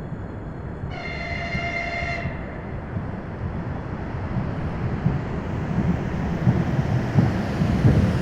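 Ivolga (EG2Tv) electric train sounding one steady horn blast a second in, lasting just over a second, while the rumble of the approaching train grows steadily louder.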